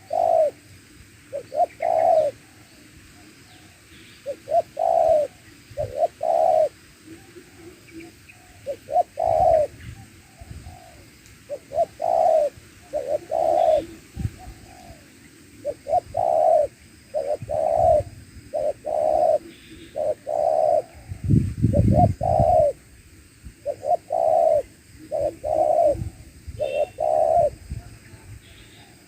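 Spotted doves cooing, repeated short coos in groups of two or three throughout. A brief low rumble comes about two-thirds of the way through.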